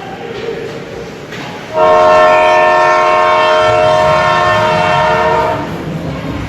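An arena horn gives one steady blast of about four seconds, starting about two seconds in and then cutting off.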